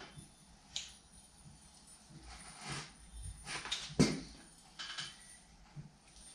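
Sheet metal being worked through a hand-cranked bead roller: scattered light clicks and short scrapes, with a sharper metallic knock about four seconds in.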